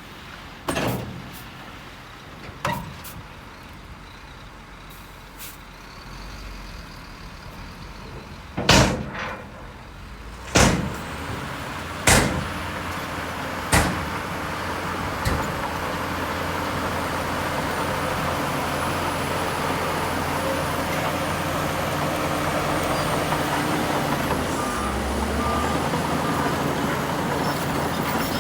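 Heavy diesel earthmoving machinery at work: a series of loud, sharp metallic clanks, then a diesel engine running steadily under load and growing louder from about halfway through.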